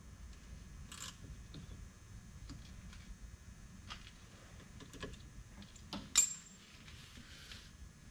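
Light metallic clicks and taps of small metal parts and tools being handled during brake work, with one sharper clink and a brief ring about six seconds in.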